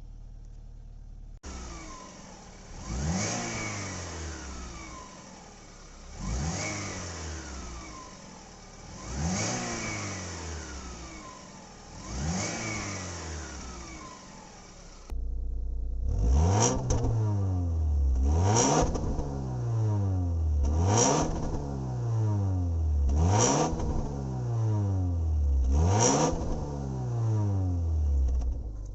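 Alfa Romeo 156 2.0 Twin Spark inline-four revved in repeated blips through its stock exhaust, each rev rising quickly and falling back toward idle. Four revs come a few seconds apart; then, with a sudden jump in loudness about halfway, five louder revs follow a little faster.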